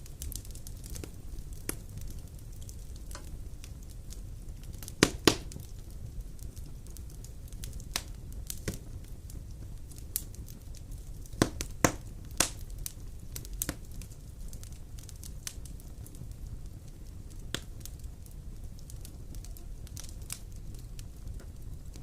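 Wood fire burning in a fireplace: a steady low rumble with irregular sharp crackles and pops, the loudest ones about five seconds in and again around twelve seconds.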